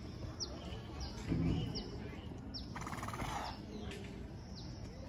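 A small bird chirping over and over, short high notes that slide downward, about once a second, over steady outdoor hum. A brief low sound about a second and a half in is the loudest moment, and a short raspy noise follows around three seconds in.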